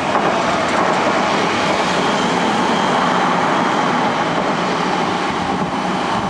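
Odakyu Kuya 31 inspection car and 1000-series electric train passing close at speed, a loud, steady rush of wheel and running noise.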